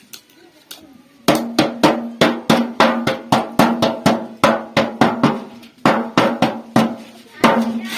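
A hammer beating refrigerator sheet metal in quick, even blows, about three to four a second, each blow leaving a short metallic ring; the hammering starts about a second in.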